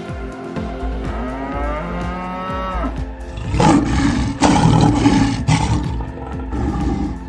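A cow mooing: one long drawn-out call in the first three seconds. About three seconds in comes a louder, rougher, noisy call that lasts about two and a half seconds.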